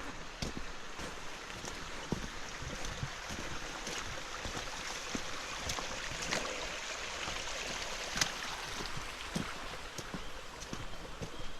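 Rushing water of a rain-swollen river, a steady hiss that grows louder towards the middle.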